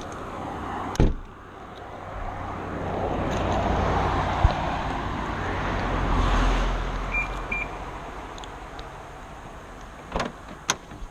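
Car road noise, swelling to a peak about six seconds in with a deep rumble, then fading. A sharp click comes about a second in, and a few more near the end.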